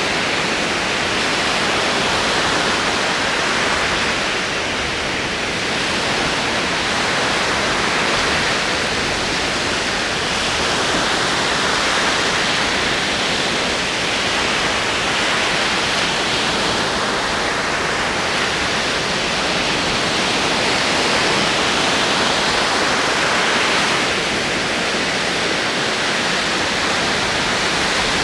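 Ocean waves rolling and breaking on a shore, a continuous wash of surf that swells and eases slowly every several seconds.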